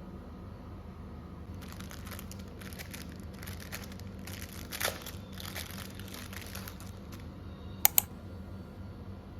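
Plastic wrapping crinkling as it is handled for several seconds, then two sharp clicks in quick succession near the end.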